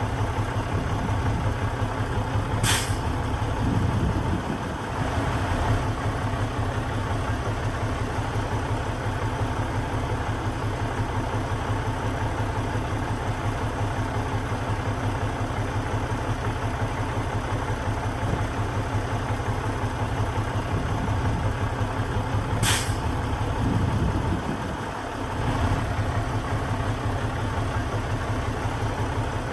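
Heavy diesel engine of construction machinery running steadily with an even low throb. Two short, sharp hisses of released air break in, about three seconds in and again near twenty-three seconds.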